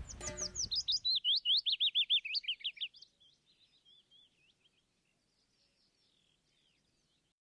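A songbird singing a fast run of repeated whistled notes, about five a second, stepping down in pitch over the first three seconds, then fainter, scattered chirps. Wind rumbles on the microphone in the first second.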